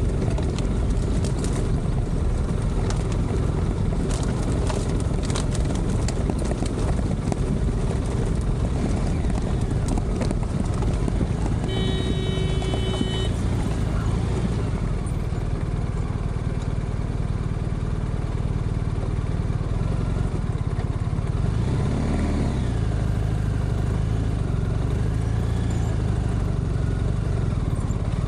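Adventure motorcycle engine running steadily while riding, with wind noise across the microphone. A brief steady high tone sounds for about a second and a half, about twelve seconds in.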